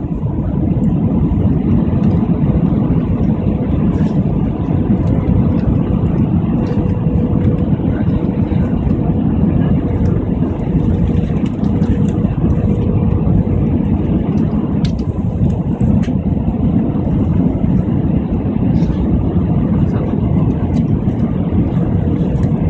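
Steady drone of an airliner's engines and airflow heard from inside the passenger cabin during landing, with a faint even humming tone running through it.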